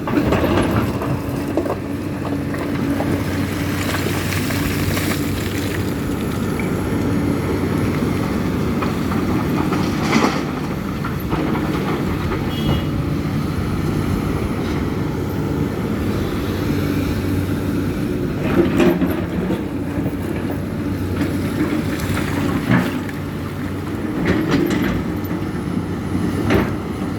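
Case CX300C excavator's diesel engine running steadily under working load, with several sharp knocks and clanks from the digging and truck loading.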